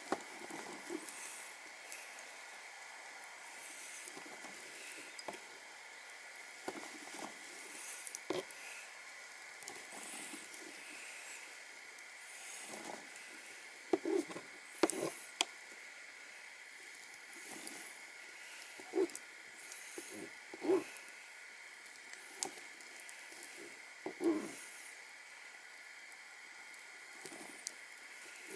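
Wood fire crackling with scattered sharp pops over a steady hiss, broken by several short knocks and scrapes of cookware being handled.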